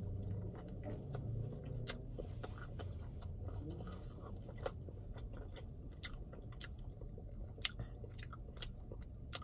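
Close-up biting and chewing of a Popeyes fried chicken sandwich, with scattered sharp crunches of the crispy breading.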